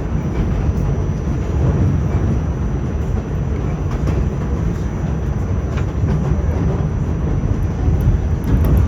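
R46 subway car running along the track: a steady rumble of wheels on rails with a few faint clicks, getting a little louder near the end.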